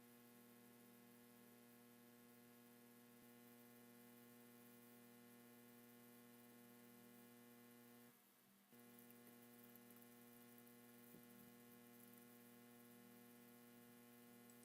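Near silence: a faint, steady electrical mains hum, briefly cutting out about eight seconds in.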